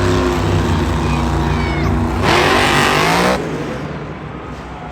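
Monster truck engine running loud in an arena, revving hard for about a second just after the two-second mark, then dropping back to a lower drone.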